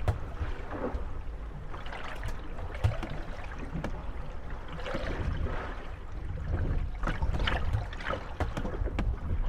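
Moored wooden gondolas rocking on choppy water: waves lapping and splashing at the hulls, with scattered creaks and knocks as the boats bump against each other.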